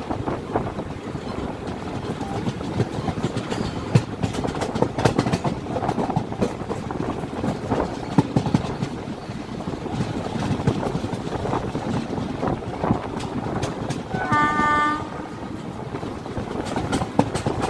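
Train running along the track with a steady rattle and repeated clicks of the wheels over rail joints, and one short train horn blast about fourteen seconds in.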